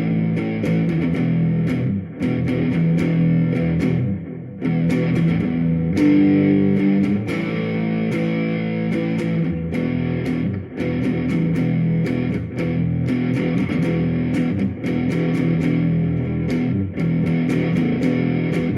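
Kramer NightSwan electric guitar played through an amp: picked notes and chords ringing on, in phrases that break off briefly about every two seconds.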